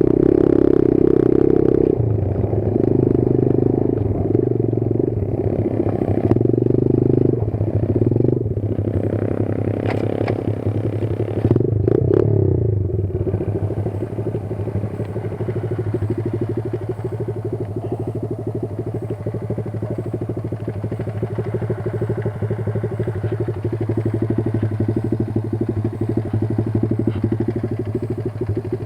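Kayo 140 pit bike's single-cylinder four-stroke engine revving in several short bursts over the first dozen seconds, then running steadily at lower revs.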